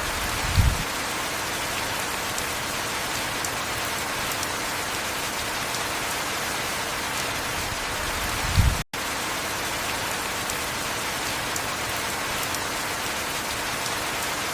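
Heavy rain falling steadily as an even hiss. Two brief low thumps come about half a second in and again near nine seconds; the second is followed by a split-second cut to silence.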